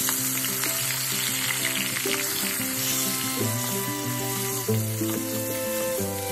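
Blended chili paste sizzling and frying in hot oil in a pan as it is stirred with a spatula, under steady background music.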